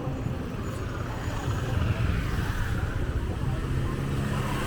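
Motor vehicle engines in street traffic: a steady low rumble, with a higher engine note falling in pitch through the middle.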